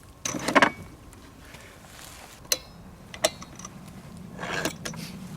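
Hand-cranked apple peeler at work: a scraping burst about half a second in, two sharp clicks in the middle, and another scrape near the end. A low steady hum comes in near the end.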